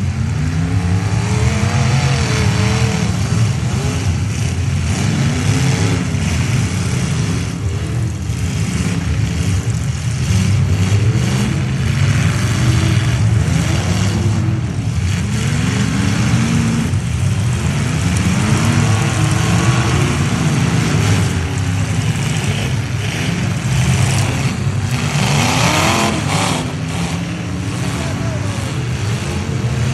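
Several demolition-derby trucks' engines revving up and down together, overlapping in pitch, with a few short bangs.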